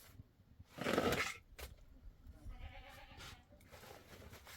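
Livestock bleating: one loud bleat about a second in, then a fainter, longer call a couple of seconds later.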